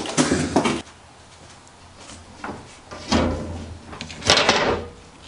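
A few knocks and a clatter in the first second. Then two scraping, sliding sounds about a second apart as a glass pane is set down into a picture frame.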